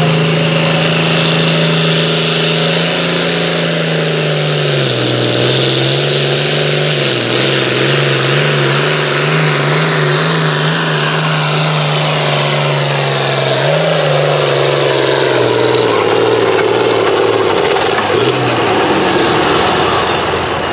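Ford farm-stock pulling tractor's engine running hard under load, its pitch dropping about four seconds in as it lugs against the sled and then wavering. Near the end a high whine falls away and the engine note fades as it backs off.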